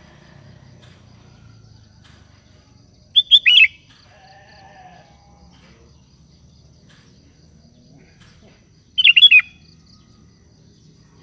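Sooty-headed bulbul (kutilang) calling: two short bursts of a few quick, falling notes, about six seconds apart.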